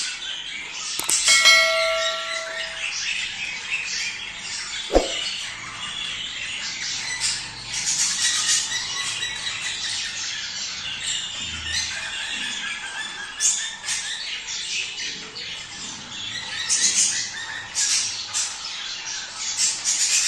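A flock of budgerigars chattering and warbling continuously, many quick overlapping chirps. About a second in, a bell-like tone rings for just over a second, and there is a sharp click around five seconds in.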